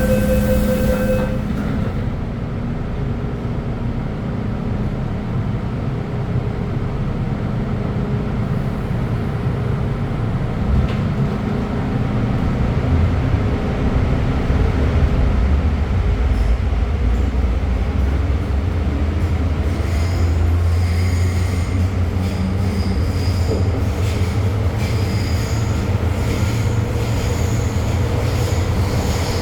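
MTR M-train electric multiple unit running in a metro tunnel: continuous low rumble of wheels and running gear that grows stronger about halfway through. From about twenty seconds in, high-pitched wheel squeal sounds over it. A steady tone cuts off about a second in.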